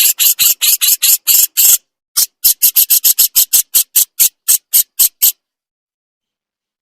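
Jenggot jawa bird giving its harsh scolding call (besetan): a rapid run of short, hissing notes, about four to five a second, with a brief break about two seconds in. It stops abruptly a little past five seconds in.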